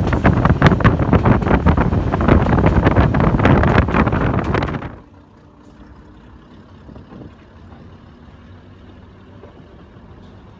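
Wind buffeting the microphone held out of the window of a moving Class 101 diesel multiple unit; about five seconds in it drops away suddenly, leaving the train's low, steady diesel running with a few light rattles.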